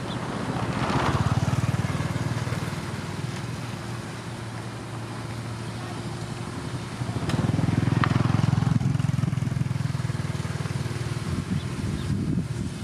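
Diesel engine of heavy road-construction machinery running, swelling louder twice: about a second in and again around seven seconds in.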